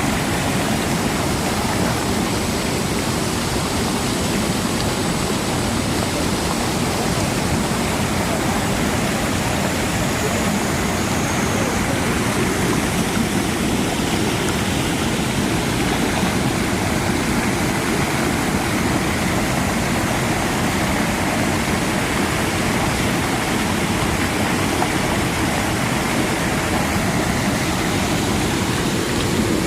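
Mountain valley stream rushing steadily, a constant loud wash of water.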